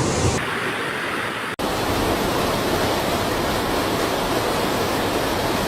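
Steady rushing of floodwater, a dense even noise. It drops out for an instant about a second and a half in, then carries on.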